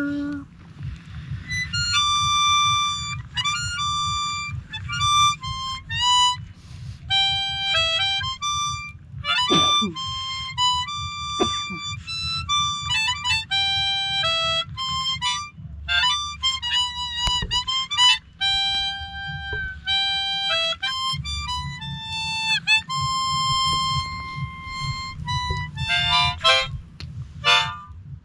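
Harmonica played solo: a melody of held notes, with a few bent notes and quick runs between them.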